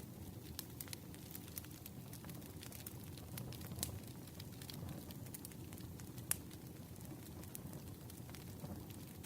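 Campfire crackling: burning wood giving a steady low rush with frequent small, sharp pops and snaps, two of them louder, about four and six seconds in.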